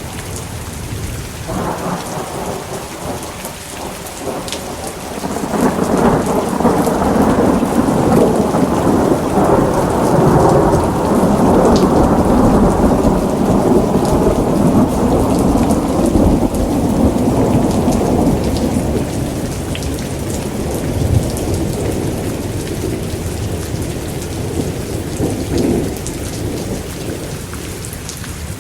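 Steady heavy rain with a long roll of thunder that builds over the first few seconds, rumbles loudest for about twelve seconds, then fades away.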